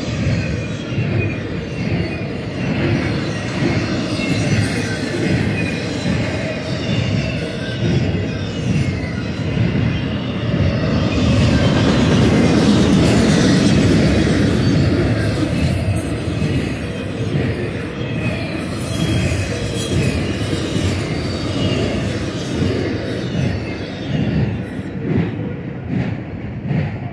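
BNSF intermodal freight train's trailer-carrying flatcars rolling past at speed: a steady rumble and clatter of steel wheels on the rails with faint intermittent squeals, louder for a few seconds around the middle. The last car passes near the end.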